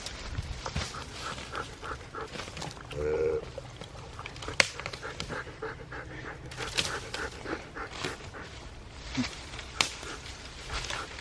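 A dog panting fast and steadily, with a brief tonal whine-like sound about three seconds in and a couple of sharp clicks.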